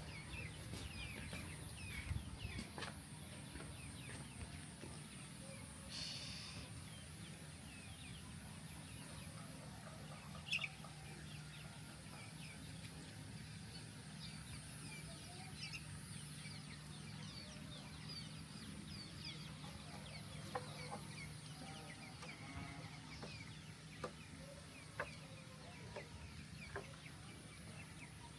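Chickens clucking now and then, with many small bird chirps and a steady high-pitched hiss. A few sharp ticks stand out.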